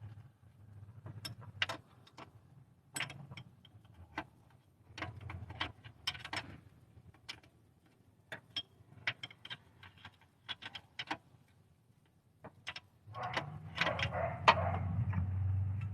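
Hand ratchet clicking in short runs, with metal tools clinking, as a bolt that has just broken loose is backed out. A louder, denser rattling stretch comes in the last few seconds.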